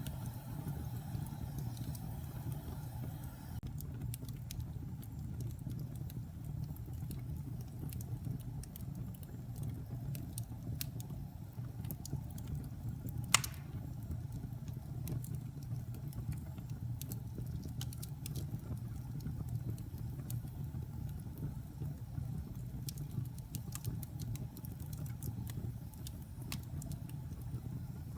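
Wood-burning fire crackling: a steady low rumble of burning with scattered small crackles, and one sharp, much louder pop about halfway through.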